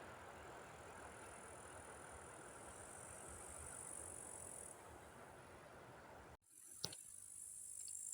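Faint outdoor ambience: a low distant rumble and hiss with a steady high-pitched insect chirring. The sound drops out abruptly about six seconds in and resumes with the chirring and a single sharp click.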